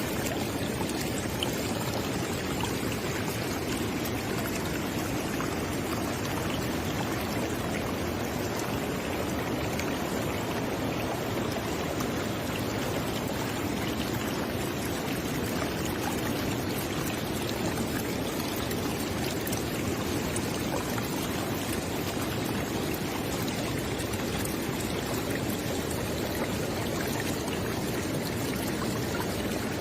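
River water flowing steadily, a constant rushing and gurgling with small splashes scattered through it.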